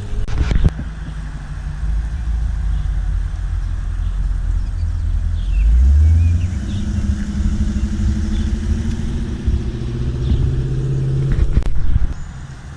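A car's engine rumbling at low speed as it rolls past, its pitch rising a little about six seconds in and then easing back. Sharp clicks come near the start and just before the end, and the rumble drops away abruptly near the end.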